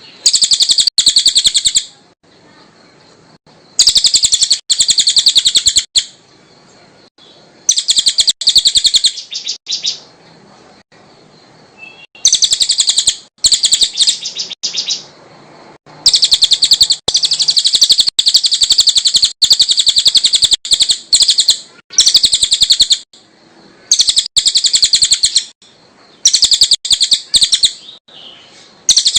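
A cililin songbird singing loud, high-pitched, fast rattling trills. The trills come in bursts lasting one to several seconds, with short pauses between them; the longest burst runs about six seconds.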